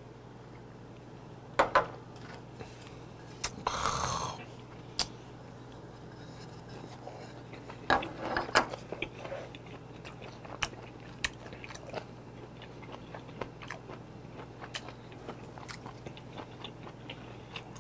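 Close-up mouth sounds of a man chewing and crunching mouthfuls of seafood and vegetables, with scattered short clicks from chopsticks on the dishes. A low steady hum runs underneath.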